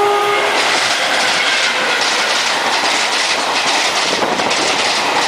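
Model train rolling along the track: a steady rattle of small wheels and running gear on model rails. A horn-like tone from before cuts off about half a second in.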